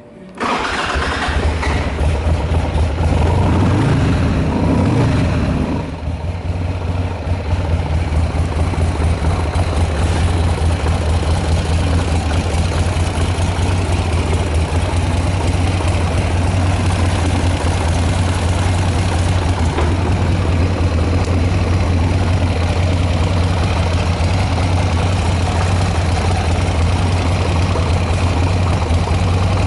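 Buell X1 Lightning's air-cooled V-twin starting on the first try a fraction of a second in, running up briefly over the next few seconds, then settling into a steady, even idle. It runs with no abnormal noises, as the seller states.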